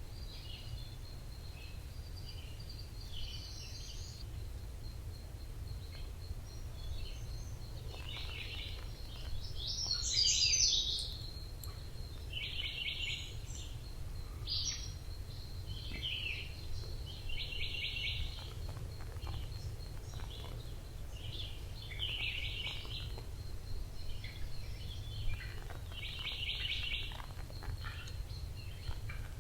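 Forest birds singing and calling, with short trilled phrases repeating every few seconds and the loudest burst about a third of the way in, over a steady low rumble.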